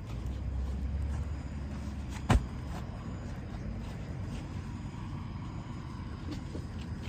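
Low vehicle-like rumble that fades after about two seconds, then a single sharp knock, over steady low background noise.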